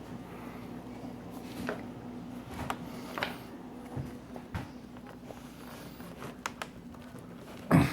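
Light clicks and taps from small screws and a screwdriver being worked into a laptop's LCD screen assembly, under pressure, over a steady low hum, with one louder knock near the end.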